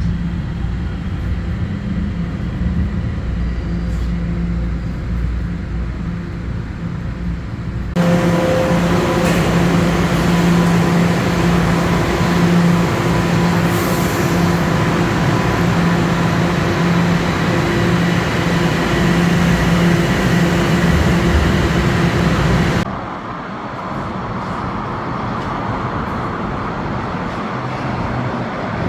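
Steady running noise inside an Eglinton Crosstown light-rail car: a low hum with a held tone and an even rushing noise. The sound jumps suddenly louder about eight seconds in and drops back just as suddenly about twenty-three seconds in.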